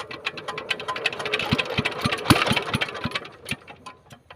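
Small diesel water-pump engine turning over with a clatter and a run of low thumps about four a second, which stop about three and a half seconds in: the engine fails to catch.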